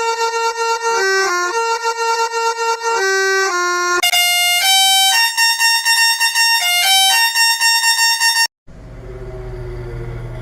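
A musical vehicle horn playing a tune in loud, held notes, first a lower phrase and then a higher one. About eight and a half seconds in it cuts off, and a low hum with faint sliding tones follows.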